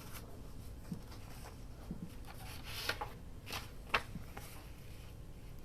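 Paper and craft pieces being handled on a work surface: scattered soft rustles and a few small taps, the sharpest about four seconds in.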